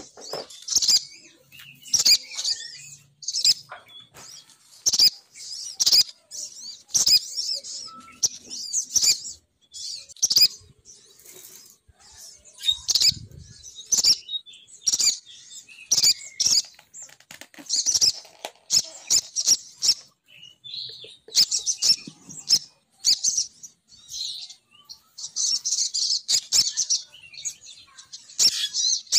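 Female sogon bird lure call: high, rapid chirping phrases repeated in short bursts with sharp clicks between them, used as a pikat call to draw males down.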